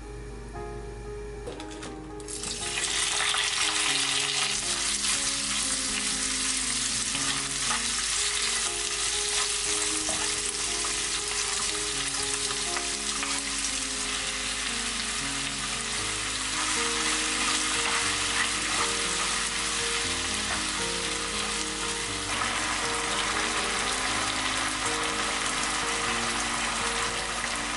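Bacon, onion and kimchi frying in oil in a nonstick wok: a loud, steady sizzle that starts suddenly about two seconds in, as the food goes into the hot oil, and keeps on. Quiet background music plays underneath.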